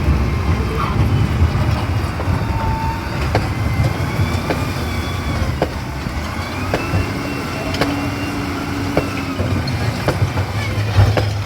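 Heavy machinery engine running with a steady low rumble. High wavering squeals and scattered sharp knocks are heard over it.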